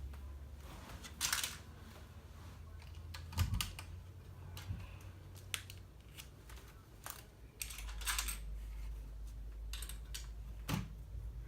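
Plastic LEGO bricks clicking and rattling as pieces are handled and pressed together, a dozen or so sharp clicks and short rustles spread irregularly over a low steady hum.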